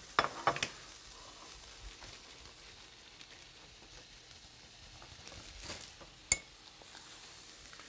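Grilled cheese sandwiches frying in a pan, a faint steady sizzle. A single sharp clink sounds about six seconds in.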